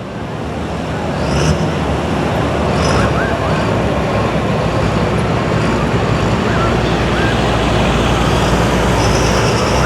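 Pulling truck's engine running steadily near the track, getting louder over the first few seconds.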